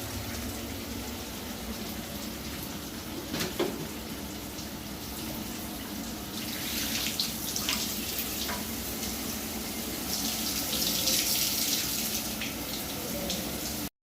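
Water spraying and splashing in a steady hiss over a low hum, growing stronger about six seconds in. A brief knock comes about three and a half seconds in, and the sound cuts off suddenly near the end.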